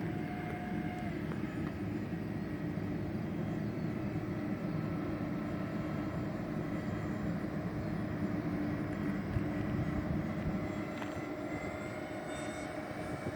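Electric ducted fans of a radio-controlled Airbus A330-600 model airliner running in flight: a steady whine with a rushing air sound, its pitch drifting slowly up and down with the throttle.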